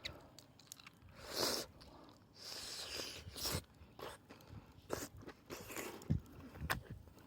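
Irregular crunching and chewing close to the microphone, with sharp clicks and short scraping bursts.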